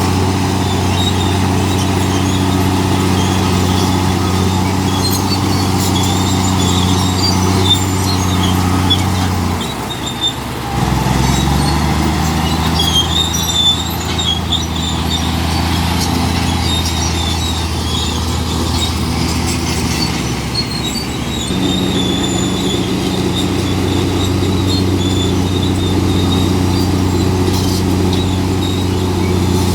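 Komatsu D65P crawler bulldozer's diesel engine working steadily. Its note drops about ten seconds in and comes back up to its higher pitch about twenty-one seconds in, with scattered high squeaks over it.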